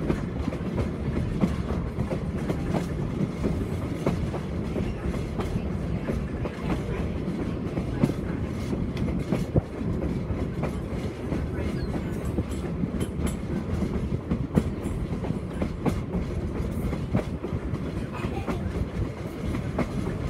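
Railway passenger car rolling along the track: a steady rumble of wheels on rail, broken by frequent sharp clicks as the wheels pass over rail joints.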